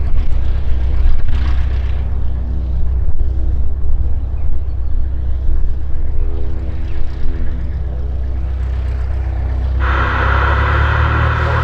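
Cessna 172S Skyhawk's four-cylinder Lycoming piston engine running steadily with a low drone. A steady hiss joins near the end.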